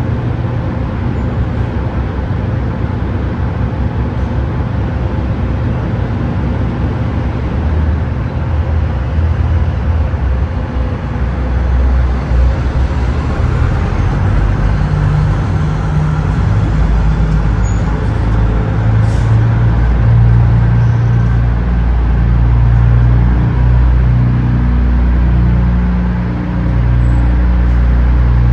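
Semi truck's diesel engine running at low revs during slow manoeuvring, a steady low rumble that grows louder and heavier from about twelve seconds in.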